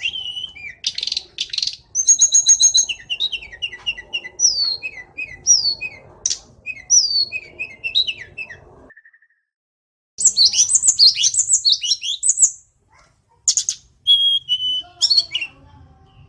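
Tledekan songbird singing a fast, varied song of high chirps, trills and short down-sliding whistles. About a second of dead silence breaks it just past the middle, and it resumes with a quick run of chirps.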